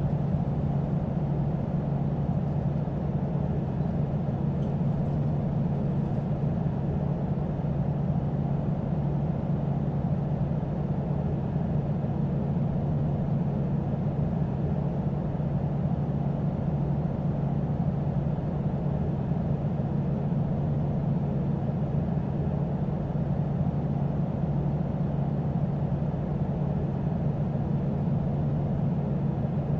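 Airbus A320 in flight, heard from inside the cabin: a steady drone of engines and airflow with a constant low hum.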